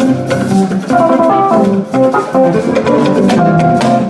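Church band playing an instrumental passage between choir lines: drum kit keeping a steady beat under guitar and keyboard.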